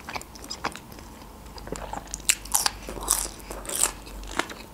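Crunching bites and chewing of raw red bell pepper: a run of crisp, wet crunches, loudest and thickest about halfway through.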